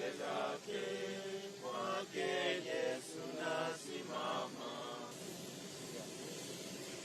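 Voices singing a slow chant-like song in short phrases, which fade out about five seconds in, leaving a steady hiss.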